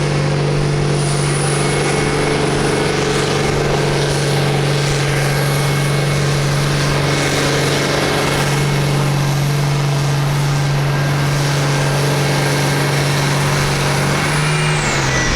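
Farm stock pulling tractor's engine running at steady high revs under load, with the pitch held constant. Near the end the revs drop away as the throttle comes off.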